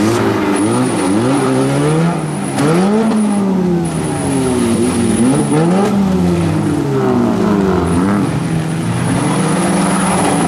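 Several four-cylinder demolition derby car engines revving hard at once, their pitches rising and falling over one another as the cars push against each other in the mud.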